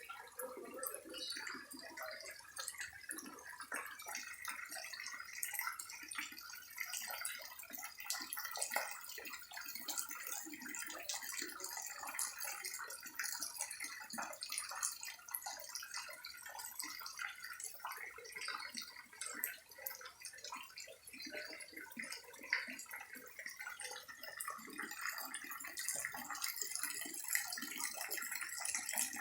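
Heavy rain falling steadily, a dense patter of countless drops and splashes.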